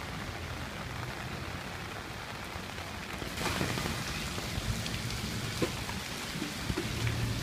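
Steady heavy rain falling, a little louder about halfway through, with a few sharp drips or taps near the end.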